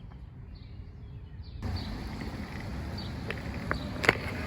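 Outdoor ambience: a steady low wind rumble on the microphone with faint bird chirps, then a few sharp clicks near the end.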